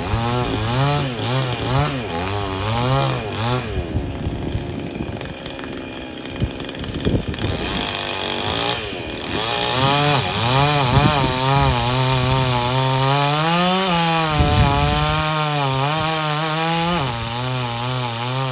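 Chainsaw running and cutting, its engine pitch wavering up and down. In the middle it falls to a rough, uneven sound with a few cracks before rising again to a steadier whine.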